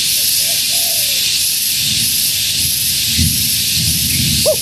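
Spotted dove cooing: a faint falling coo about half a second in, and the first notes of a louder coo at the very end. A steady high-pitched hiss runs underneath and is the loudest sound throughout.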